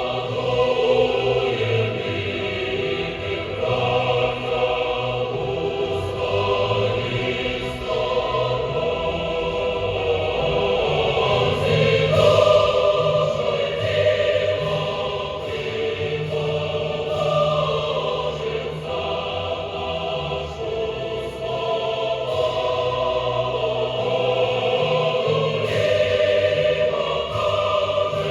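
Music: a choir singing in long, held notes.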